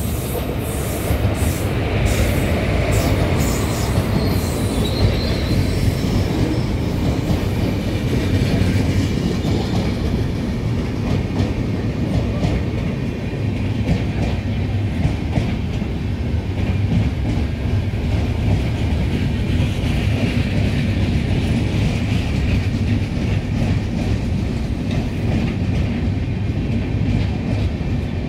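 Indian Railways express train pulling in along the platform: a steady rumble from the coaches' wheels on the rails, with a run of sharp clicks in the first few seconds and a thin high squeal from the wheels at times.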